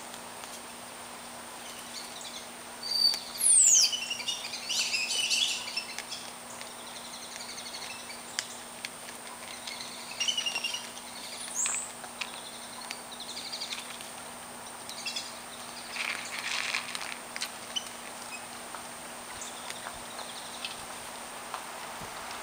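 Birds chirping and calling, with a sharp falling whistle and a loud flurry of chirps about three seconds in, then scattered chirps.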